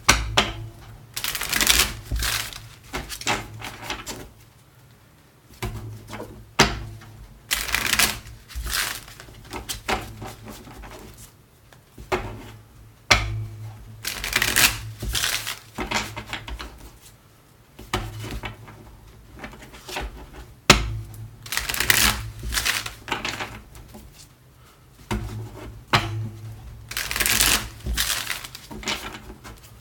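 A deck of tarot cards being shuffled by hand, with repeated short bursts of card-shuffling noise every second or two.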